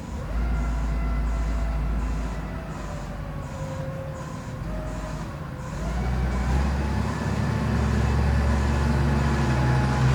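2011 Subaru Forester's flat-four boxer engine running on test, rising in speed about six seconds in and held at the higher revs.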